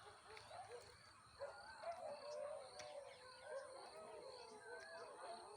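Faint chorus of many animal calls overlapping, each a short cry that rises and falls in pitch, with a steady high-pitched tone underneath.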